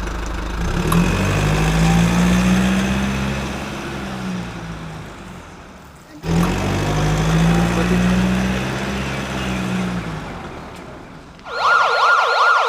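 A motor engine revs up and dies back down twice, cut off abruptly in between. Near the end a fast, repeating electronic siren warble comes in.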